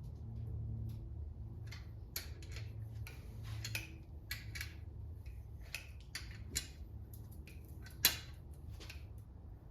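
Irregular light clicks and clinks of metal engine parts and hand tools being handled during engine assembly, the sharpest about eight seconds in, over a steady low hum.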